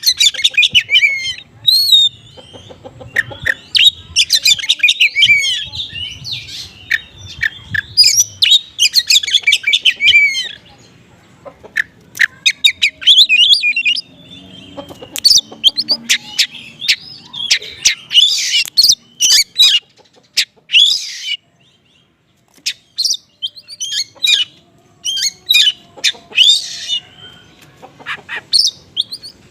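Oriental magpie-robin singing in the frantic, jumbled 'konslet' style: rapid bursts of high chirps, trills and sweeps with short breaks, packed with small-bird phrases.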